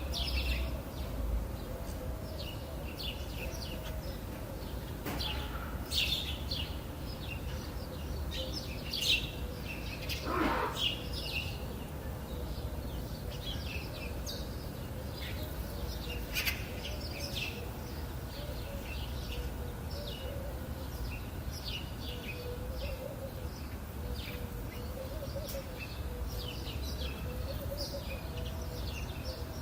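Several wild birds chirping and twittering in short, overlapping high calls, with one lower call about ten seconds in, over a steady low rumble.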